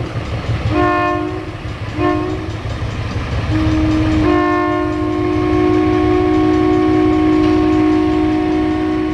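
Diesel locomotive air horn on a CN SD70M-2 sounding two short blasts and then a long held blast from about four seconds in, over the low rumble of the locomotive.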